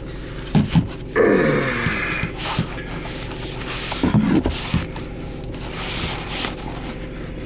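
Handling noise as a camera is wedged into a makeshift mount of paper napkins: irregular bumps and scrapes, with a stretch of rustling about a second in, over a steady low hum.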